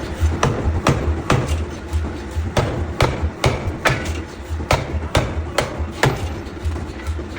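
Repeated hammer strikes on metal, roughly two a second at uneven spacing, over background music with a steady low beat.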